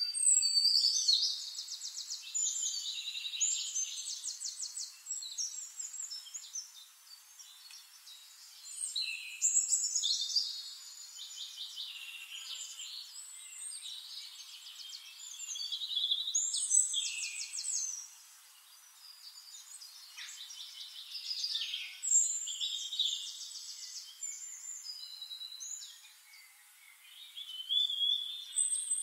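Birds singing: bursts of high-pitched trills and chirping notes, coming again every few seconds, with no low sound beneath them.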